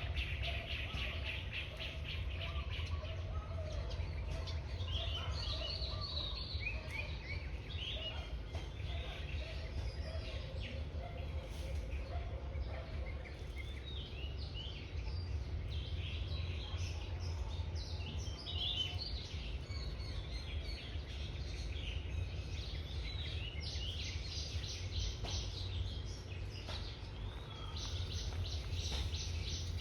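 Several birds calling and chirping, with quick rapid trills near the start and again toward the end, over a steady low rumble.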